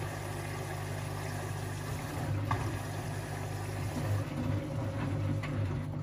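Washing machine running: a steady low motor hum, with an uneven rumble and swish of the drum turning the load that grows louder from about two seconds in.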